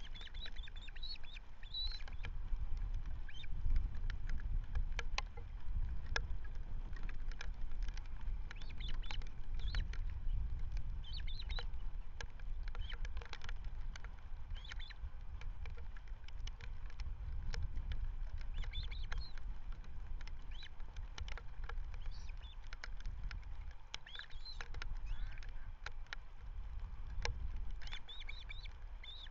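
Wind rumbling on an outdoor webcam microphone, with scattered faint clicks and short high bird chirps every few seconds.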